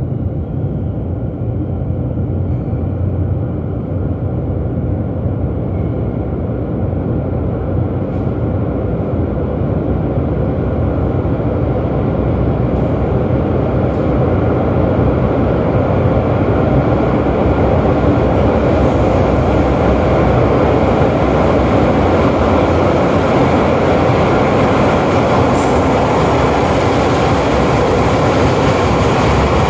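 Train running through the station, a continuous roar of wheels on rail that slowly builds louder through the half-minute.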